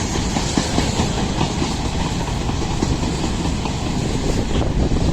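Freight train wagons rolling past, with a steady clatter of steel wheels on the rails.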